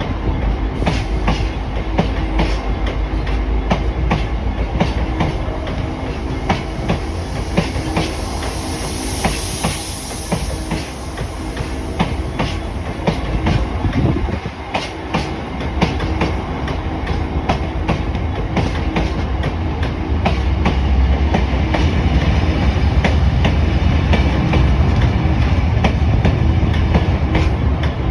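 Freight train hauled by a Class 59 diesel locomotive rolling past, its wagon wheels clicking steadily over rail joints over a continuous rumble. The rumble grows louder about two-thirds of the way through.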